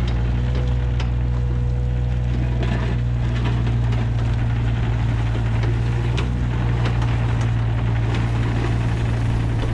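John Deere 35G mini excavator's diesel engine running steadily under work, with a steady whine above the engine's hum. Scattered short clicks and knocks come through as the machine works.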